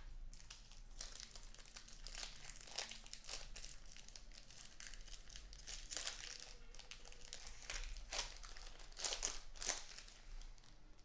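Plastic wrapping on a box of trading cards crinkling and tearing as it is opened, in irregular rustles that grow louder later on.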